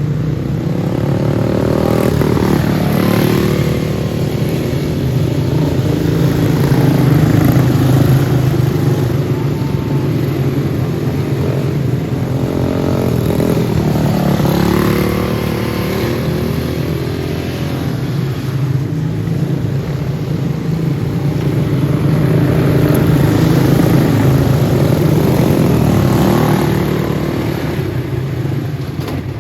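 Several racing go-karts' Briggs & Stratton Animal single-cylinder four-stroke engines running hard, the pitch rising and falling over and over as karts accelerate and pass.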